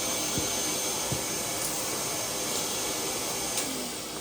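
Loud, steady rushing machine noise with no rhythm or change.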